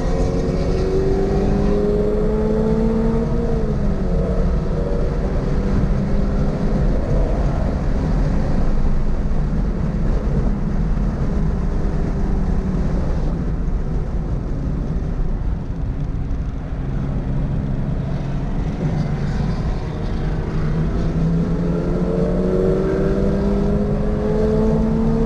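Toyota GR86's 2.4-litre flat-four engine, heard from the car on track, under load. Its pitch climbs, drops back about three and a half seconds in, holds fairly steady through the middle, and climbs again near the end, over steady road and wind rumble.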